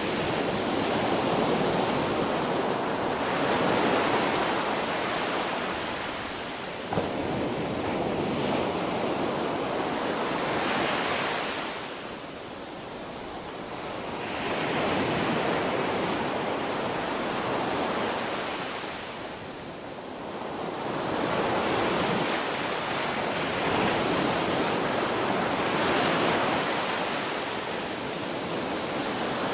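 Ocean waves breaking on a beach, a steady rushing wash that swells and ebbs every several seconds. There is a single brief click about seven seconds in.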